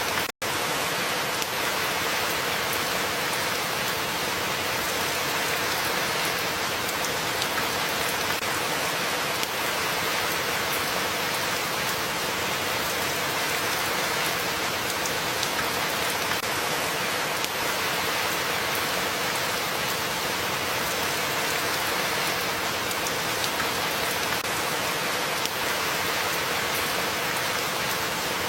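Steady, dense rainfall with scattered drop patter. The sound cuts out completely for a split second about half a second in, then carries on unchanged.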